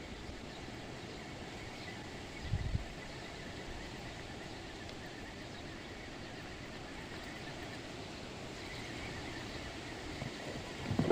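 Faint steady outdoor background noise on open water, with one brief low thump about two and a half seconds in.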